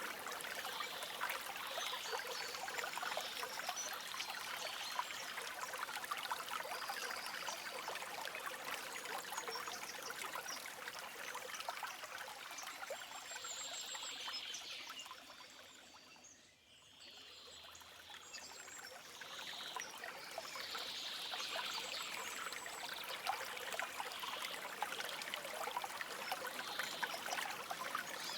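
A shallow stream trickling and babbling over stones, with faint bird calls over it. About halfway through, the water fades down to a low level and then swells back up.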